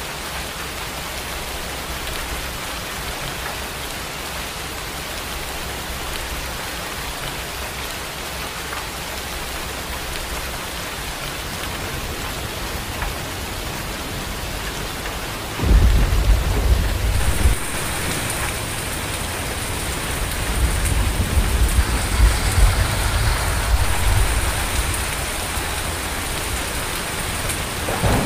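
Steady rain hissing. About halfway through, a sudden loud clap of thunder, then a few seconds later a longer low roll of thunder. A thin, steady high tone joins just after the first thunderclap.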